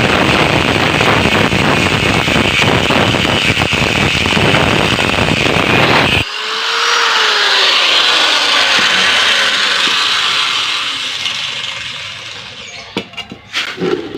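Angle grinder cutting into the steel shell of a refrigerator compressor, loud and gritty. About six seconds in it is lifted off and switched off, and its whine falls in pitch as the disc spins down. A few sharp clicks follow near the end.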